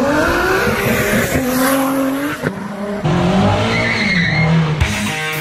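Car engines revving hard in two short bursts: the first rises in pitch and cuts off suddenly about two and a half seconds in, the second runs from about three seconds and stops abruptly near five. Rock music with electric guitar comes in near the end.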